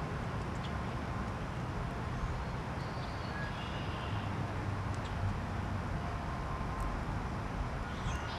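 Steady low outdoor background rumble, with a few faint, short high bird chirps about three seconds in and again near the end.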